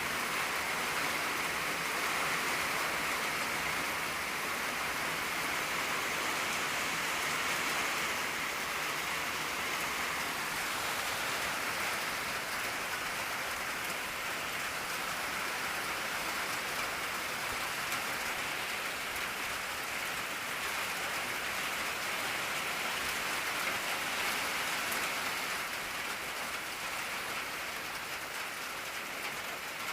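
Steady rain falling on an old tin roof: a continuous hiss of drops pattering on the metal.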